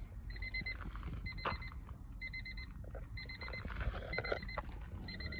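Electronic warning beeper sounding in short trills of rapid high-pitched beeps, about one trill a second.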